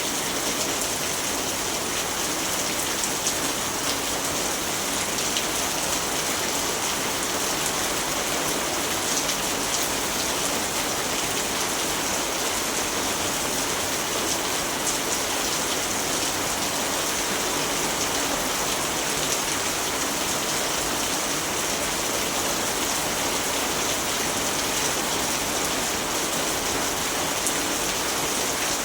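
Steady rainfall, a dense even hiss of drops with faint fine pattering, unchanging throughout.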